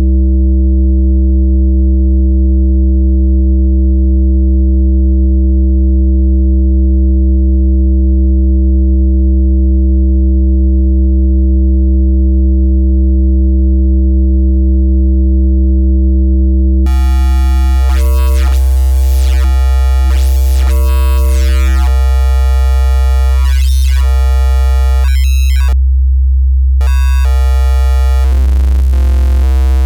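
FM synthesizer bass patch built in Bitwig's Polygrid, holding one steady low note. For the first half it is a plain, mellow tone; then bright, buzzy overtones come in and the timbre keeps sweeping and shifting, with the brightness cutting out for about a second near the end.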